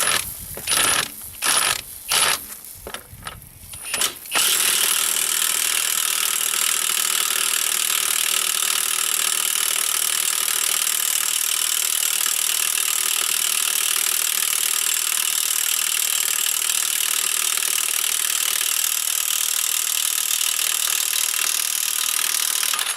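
Impact wrench hammering on a seized tractor wheel bolt that has been heated with a torch to break it loose: a few short bursts, then one long continuous run of about eighteen seconds that cuts off sharply.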